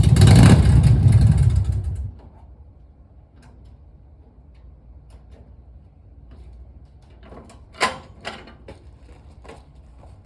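Harley-Davidson Softail's Evolution V-twin engine running and revving briefly, then switched off about two seconds in. After that there are a couple of sharp metallic clunks near the end.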